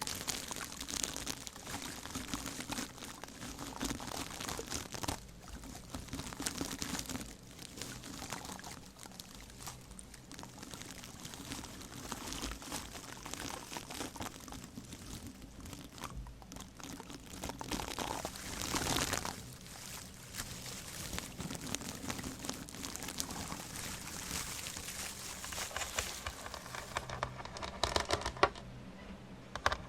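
Close-miked crinkling and rustling, an irregular run of fine crackles, louder about two-thirds of the way through.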